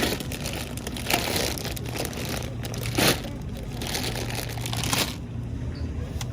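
Crinkling and rustling of something being handled, with a sharp crunch-like burst about three seconds in, over a steady low hum.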